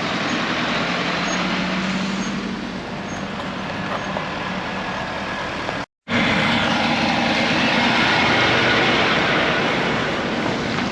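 Heavy lorry engine running under a steady wash of road and traffic noise. The sound drops out for a moment about halfway through, then comes back louder.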